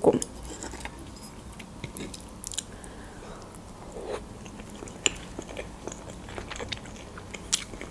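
Close-miked eating sounds of a person taking a forkful of fried egg: a bite about four seconds in, then soft, wet chewing with small mouth clicks.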